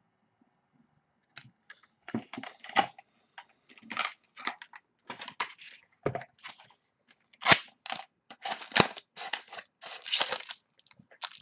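A foil trading-card pack being torn open and its wrapper crinkled by hand: irregular tearing and crinkling, starting after a quiet second or so and coming in quick bursts.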